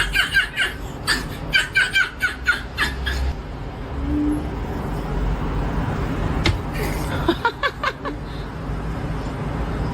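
A person laughing in quick repeated bursts, then laughing again briefly later, over a steady low rumble.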